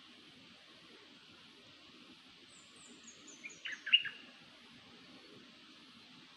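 Songbird calling: a quick run of about six high, thin notes stepping down in pitch, then a few louder, sharp chirps, the loudest about four seconds in. A steady hiss runs underneath.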